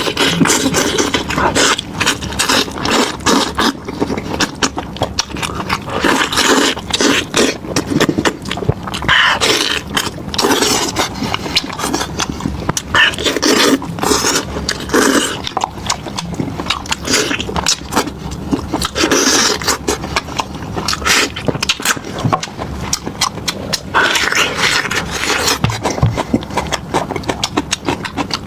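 Close-miked eating: wet chewing, smacking and crackling as meat is bitten, torn and chewed, in a dense irregular run of clicks throughout.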